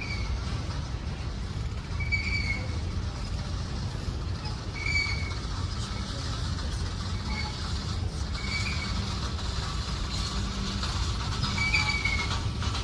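Train rolling past with a steady low rumble, and brief high-pitched squeals every two to three seconds.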